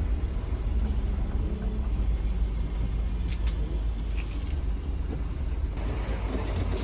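Steady low engine rumble of a coach, with a few faint clicks about three seconds in.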